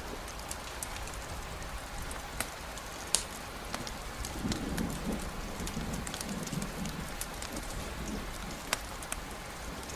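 Steady rainfall hiss with scattered sharp ticks. A low rumble comes in about four seconds in and carries on.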